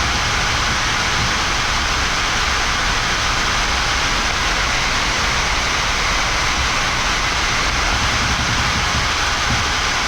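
Steady rushing hiss of a Boeing 787-9 flight deck: air and ventilation noise filling the cockpit, even and unchanging, with no distinct events.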